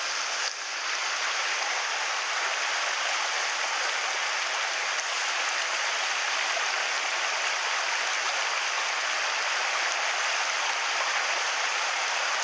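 Mountain stream water running over rocks: a steady, even rush of water with no change in level.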